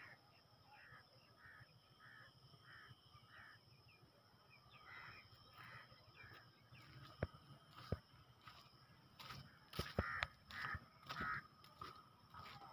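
A distant bird calling: a quick run of five or six short calls evenly spaced about half a second apart, then further runs of calls later. A few faint knocks come between them.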